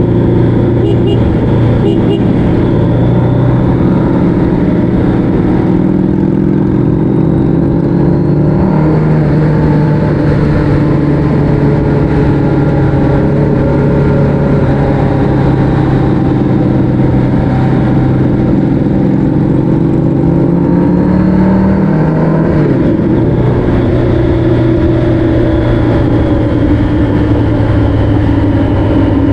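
A vehicle's engine running steadily under way, its pitch shifting about nine seconds in and again a little after twenty seconds, over a low steady rumble.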